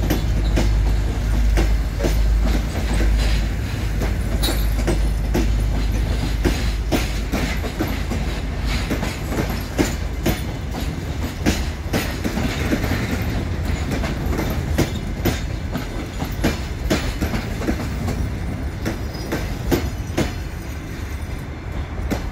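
Passenger coaches rolling past, their wheels clattering over rail joints and points in irregular sharp clicks over a low rumble. The rumble is heaviest in the first few seconds and eases toward the end as the last coach goes by.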